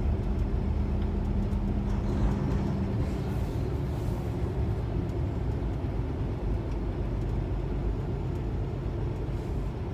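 Kenworth T680 semi truck's diesel engine running as the truck drives: a steady low rumble, with a steady hum that fades out after about three seconds.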